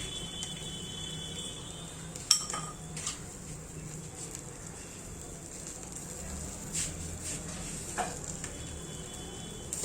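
Utensils clinking against dishes and pans while cooking: a few scattered clinks over a steady background hum. The loudest is a sharp ringing clink about two seconds in.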